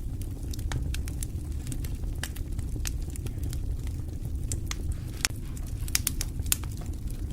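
Wood fire in a fireplace crackling: a steady low rumble of flames with scattered sharp pops, a few louder ones in the second half.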